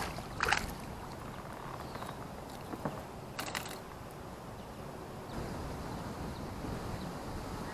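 Fishing reel being cranked while a hooked fish is reeled in, a faint mechanical winding with a few short clicks.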